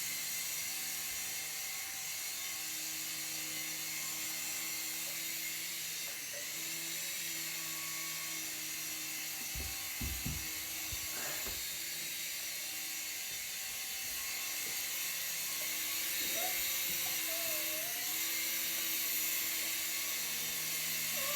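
Small electric motor and rotors of a toy remote-control helicopter whirring steadily, the pitch dipping briefly now and then, with a few low knocks about ten seconds in.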